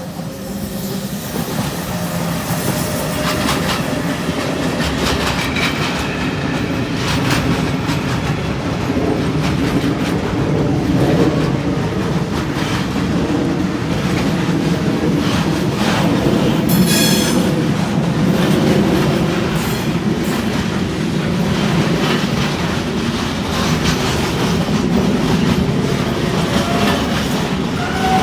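Container freight train rolling past at speed: a steady low rumble with wheels clicking over the rail joints. A brief wheel squeal rings out about seventeen seconds in.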